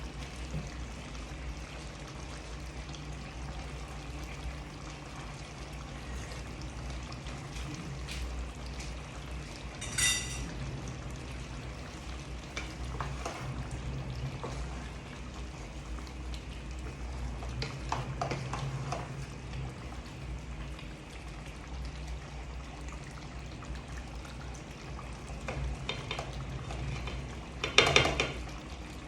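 Curry cooking in a pot, a faint frying sizzle over a steady low hum, with occasional stirring sounds. A metal utensil clinks against the pot about ten seconds in, and there is a louder clatter near the end.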